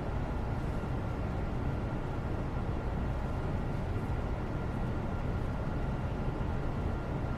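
Steady background noise, a low rumbling hiss with a faint steady tone above it, unchanging throughout.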